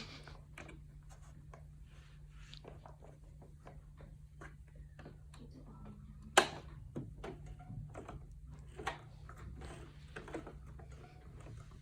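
Scattered light clicks and taps of hands handling the sewing machine and fabric while it is set up, not yet stitching. There is one sharp click about six seconds in and smaller ones later, over a steady low hum.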